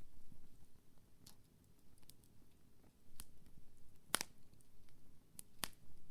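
Wood campfire crackling, with a handful of sharp, irregular pops from the burning wood, the loudest about four seconds in and two close together near the end.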